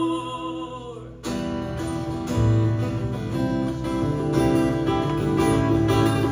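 Live acoustic guitar strumming chords, coming in about a second in as a held note dies away, with the low end filling out a second later.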